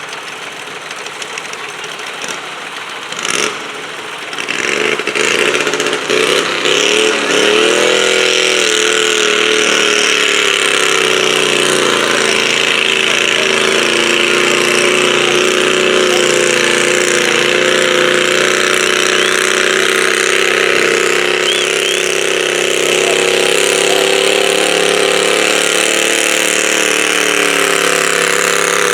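Super stock garden tractor engine, quieter at first with one sharp crack about three seconds in. It then revs up, its pitch wavering as the tractor pulls away. It runs loud at high, steady revs under load for the rest of the pull, sagging slightly in pitch near the end.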